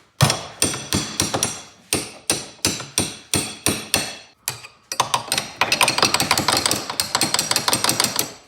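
Metal tools clanking: a series of sharp metal strikes, about two to three a second, then a quicker, denser clatter over the last few seconds.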